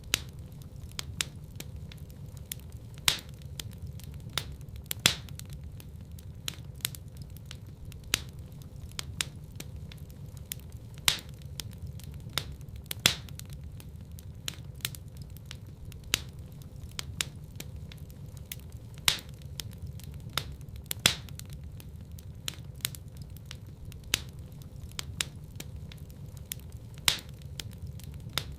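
Wood fire in a fireplace crackling: sharp snaps and pops several times a second, with a louder pop every two or three seconds, over a steady low rumble of the flames.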